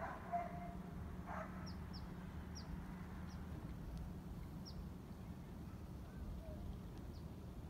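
Short, high, descending chirps of a small bird, repeated every second or so and then more sparsely, over a steady low hum. A brief louder call comes in the first second.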